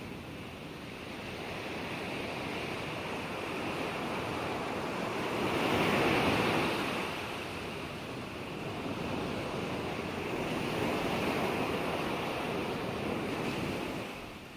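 Ocean waves breaking and washing on the shore, with a larger surge about six seconds in and another swell a few seconds later before it eases off near the end.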